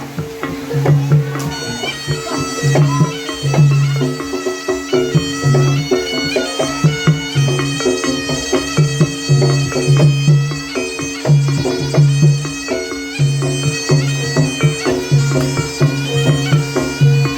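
Kuda lumping ensemble music. A shrill reed-pipe melody enters about a second and a half in, over drum strokes, repeated low gong notes and steady chiming tones.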